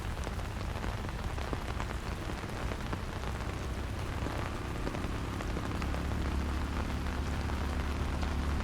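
Steady rain falling, with a dense patter of drops. About halfway through, a motor's low, steady drone comes in and grows louder, as if approaching.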